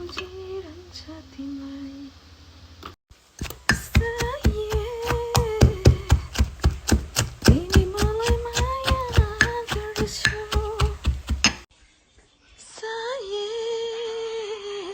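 A woman singing a Nepali song over music. Through the middle, a run of sharp, evenly spaced taps at about four a second sounds under the voice, and the song breaks off briefly near the end before the voice returns.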